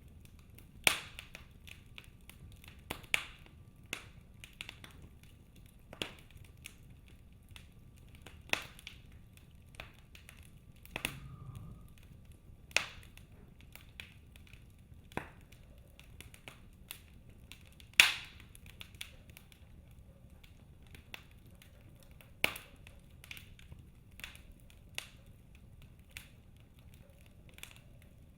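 Wood fire in a fireplace crackling: irregular sharp pops and snaps over a faint low rumble, with the loudest snap about eighteen seconds in.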